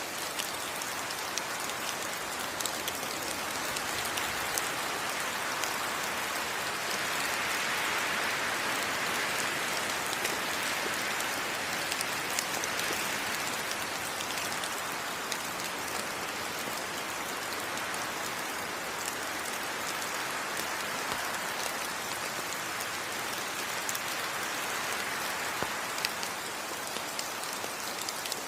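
Steady heavy rain: a dense hiss flecked with sharp ticks of individual drops, swelling a little and easing off again a couple of times.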